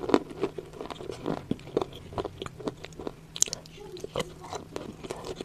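Close-up chewing of wet, crunchy clay (nakumat with clay paste): irregular crunches and wet mouth clicks, several a second.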